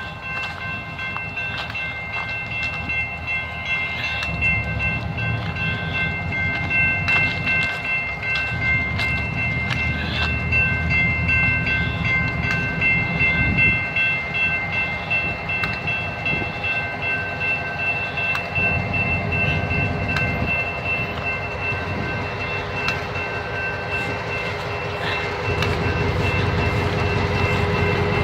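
Freight train moving slowly: a deep rumble of diesel engines and rolling cars with a steady high-pitched squeal of wheels or brakes over it, and scattered clicks and clanks. The rumble grows louder near the end.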